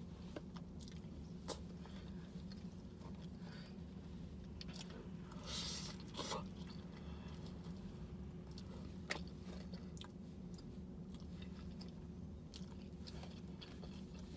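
A person chewing and biting food close to the microphone: mouthfuls of rice with gravy and crispy fried chicken, with scattered small clicks and a short louder crunchy burst about six seconds in. A steady low hum runs underneath.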